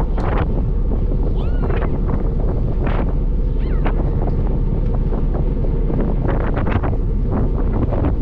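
Wind buffeting the microphone over a steady low rumble, as on the deck of a moving ferry, with gusts coming and going. A few faint high squeaking glides come through briefly.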